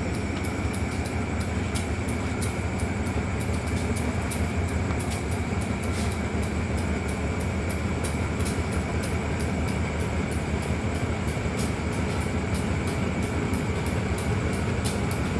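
Diesel train running slowly toward the listener, its engine giving a steady low rumble, with frequent faint clicks and a faint steady high tone over it.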